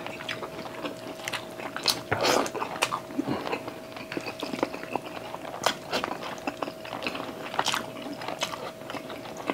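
Close-miked chewing of braised chicken and rice eaten by hand: a loose run of short wet mouth clicks and smacks, a little louder about two seconds in, over a faint steady hum.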